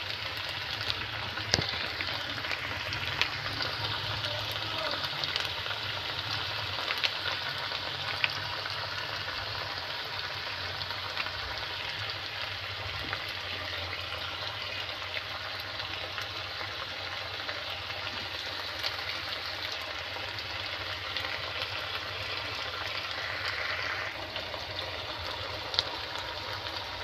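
Green beans and pork sizzling as they stir-fry in a pan with oyster sauce just added, with a few sharp clicks of the spatula against the pan.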